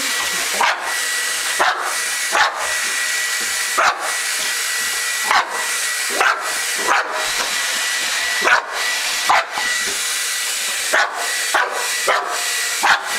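American Bulldog barking in short bursts, about once a second, at a running blow dryer, which hisses steadily with a faint high whine underneath.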